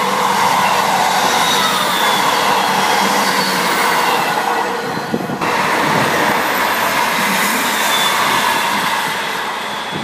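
ScotRail Class 158 diesel multiple unit passing close at speed, a loud continuous rush of engine and wheels on rail. The sound dips and changes abruptly about halfway through, then carries on.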